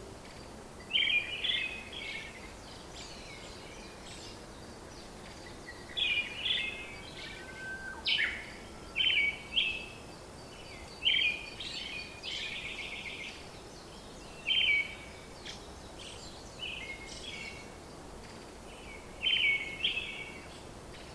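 Songbirds chirping in short, repeated phrases every second or two over a steady background hiss.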